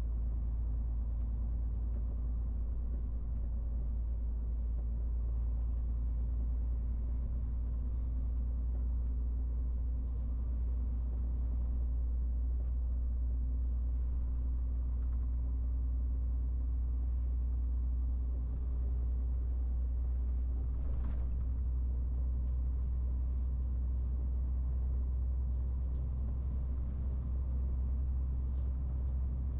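MAN TGX 18.470 lorry's six-cylinder diesel engine running steadily under way, a deep constant drone with road rumble.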